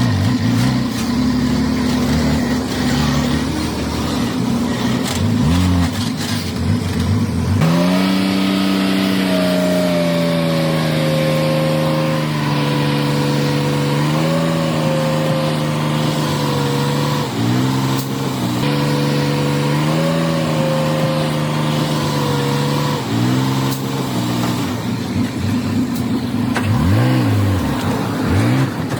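Heavy diesel engine of earthmoving machinery (dump truck or bulldozer) running under load and revving. A strong engine note comes in about a quarter of the way through and holds, dipping and rising in pitch several times, before falling back near the end.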